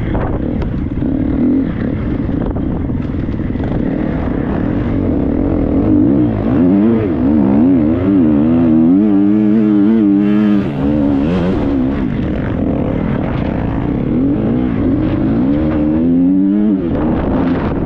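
Triumph 250 motocross bike's single-cylinder four-stroke engine, heard from the rider's helmet, running hard. Its pitch swings rapidly up and down as the throttle is worked through the middle and again near the end.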